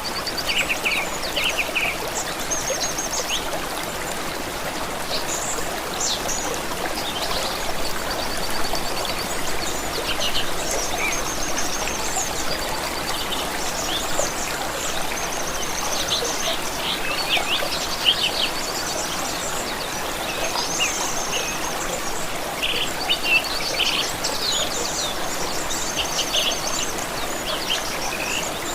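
Stream water running steadily, with songbirds calling and trilling over it throughout, including short repeated trills.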